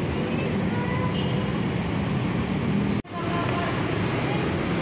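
Steady city traffic noise with faint voices in it, broken by a split-second dropout about three seconds in.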